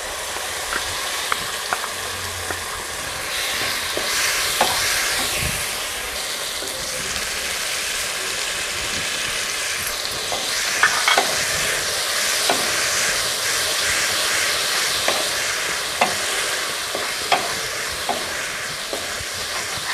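Mustard and poppy seed paste frying in hot mustard oil in a kadai, with a steady sizzle that grows a little louder a few seconds in. A wooden spatula stirs and scrapes through it, giving scattered light knocks against the pan.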